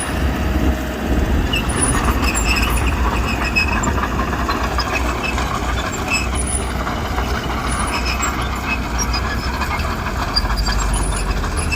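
Heavy earth-moving machinery running steadily: a diesel engine's deep, continuous rumble under a rough mechanical noise.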